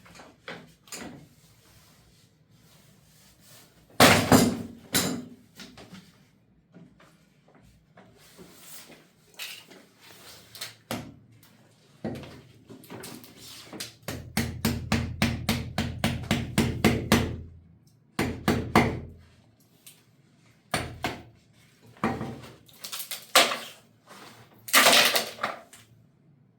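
Assorted knocks and clattering of hard objects, with a quick rattling run of strokes, several a second, for about three seconds in the middle.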